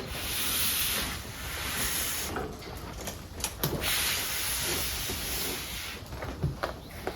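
A strong hissing, like a spray or jet of air or water, in two long stretches of about two seconds each, with a few light clicks in the gap between them.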